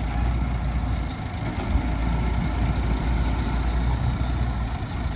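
Heavy diesel engine of earthmoving equipment running steadily at a low, even speed, dipping briefly a little after a second in.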